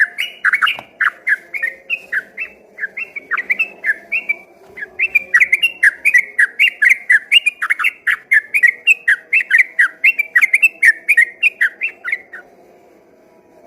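Yellow-vented bulbul (trucukan) singing a fast, continuous run of whistled, sweeping notes, several a second, which stops shortly before the end.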